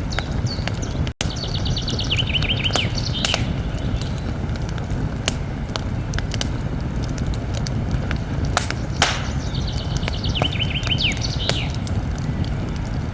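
Campfire burning with a steady low rumble and scattered sharp crackles and pops. A songbird sings the same short phrase twice, a quick run of high notes that steps down lower and ends in a flourish. The sound cuts out for an instant about a second in.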